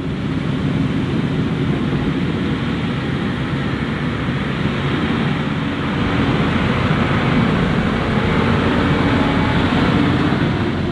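Claas Jaguar 980 forage harvester with its V12 engine running steadily under load. It gets louder right at the start and again about halfway through.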